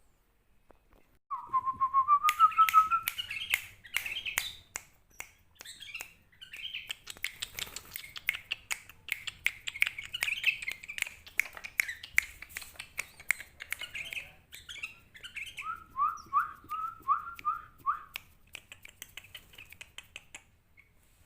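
Sooty-headed bulbul (kutilang) calling. It opens with a quick run of rising notes, then gives a long stretch of busy chattering full of sharp clicks. Near the end comes a run of about six short notes.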